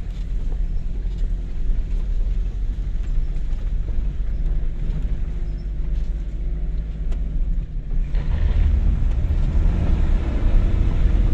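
Toyota HiLux ute driving on a rough dirt track: steady engine and road rumble, growing louder about eight seconds in as the engine revs higher.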